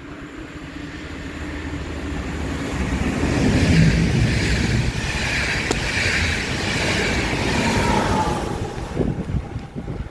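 A train passing by on the tracks: wheel and rail noise builds up, is loudest for a few seconds in the middle, and drops away near the end.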